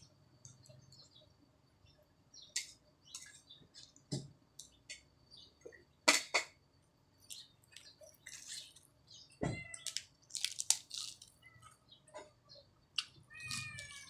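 Eating sounds: scattered clicks and smacks of a spoon on a plate and of chewing, with a few sharper clicks about six and nine and a half seconds in.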